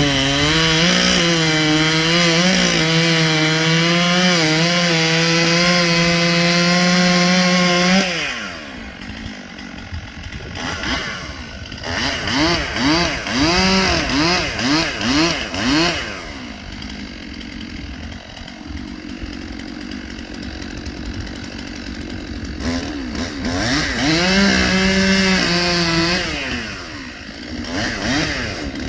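Chainsaw running at full throttle for about eight seconds, then dropping to idle, with a run of about six quick throttle blips and a second short burst at high revs near the end.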